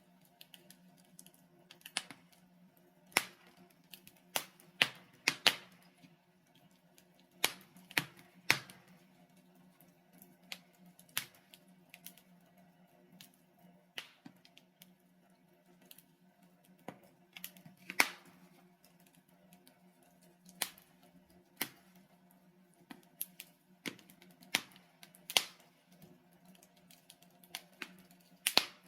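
Burning logs in a fireplace crackling: irregular sharp pops and snaps, a few much louder than the rest, every second or two over a faint steady low hum.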